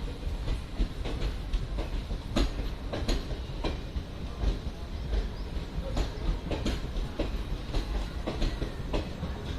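Passenger train rolling past, a steady low rumble with irregular clicks and knocks of the wheels over the rail joints.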